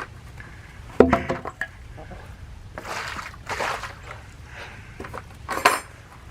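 A hard knock about a second in, then water and ice sloshing in a frozen poultry waterer, and another sharp knock near the end, as the frozen water is broken out.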